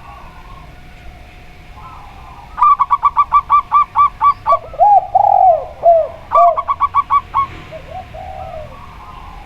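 Zebra dove and spotted dove cooing. A rapid run of short, ringing zebra-dove notes comes first, then a few lower, drawn-out spotted-dove coos, then another quick zebra-dove run and a few faint notes near the end.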